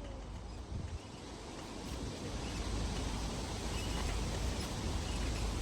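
Wind buffeting the microphone: a low rumble under a steady outdoor hiss, slowly growing louder from about two seconds in.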